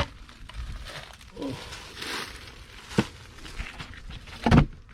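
Handling noises as a heavy sugar cake is lifted off the top of a beehive: a few sharp knocks, then two loud thumps near the end.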